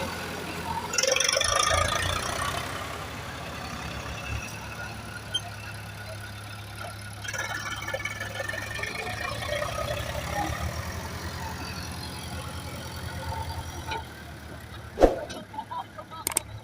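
Diesel engine of heavy earth-moving machinery running steadily. There is a louder clattering burst about a second in and a sharp knock near the end.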